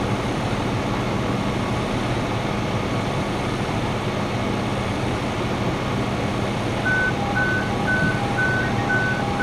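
A large truck's engine running steadily. About seven seconds in, its backup alarm starts beeping, alternating between a higher and a lower tone about twice a second: the truck is reversing.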